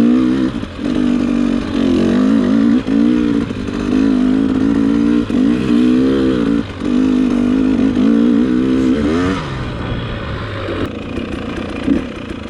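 Dirt bike engine revving up and down repeatedly as the throttle is worked while riding. About nine and a half seconds in it settles to a lower, steady idle, with a couple of short blips near the end.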